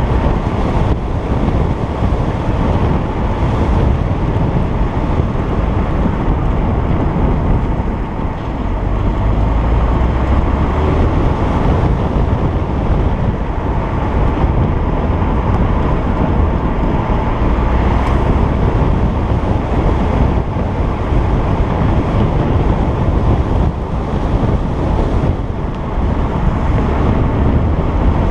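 A stock 2010 Alfa Romeo Giulietta Quadrifoglio Verde on the move, heard from a camera mounted on the car. Its turbocharged 1750 four-cylinder engine is mixed with steady road noise and wind rumbling on the microphone. There is a slight dip in level about eight seconds in and again near the end.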